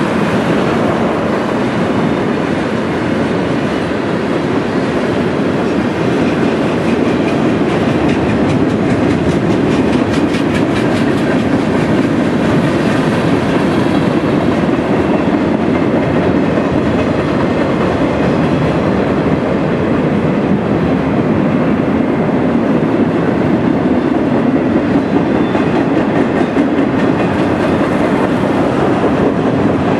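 Freight cars of a fast-moving Norfolk Southern mixed freight train rolling past, a steady loud rumble of steel wheels on rail with rhythmic clickety-clack, the clacking most distinct about ten seconds in.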